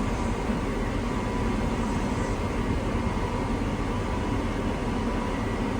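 Case IH Axial-Flow combine's diesel engine running steadily.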